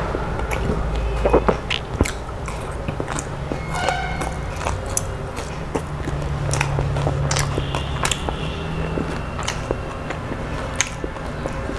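Close-miked eating sounds: chewing and biting on fried small fish, with many short wet clicks and smacks from the mouth and from fingers working the rice, over a steady low rumble.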